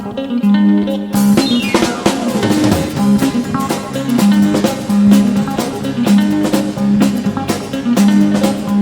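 Live country band playing the instrumental intro: drum kit with snare and bass drum keeping a steady beat under bass, guitars, piano and pedal steel guitar, with a quick falling run of notes about a second in.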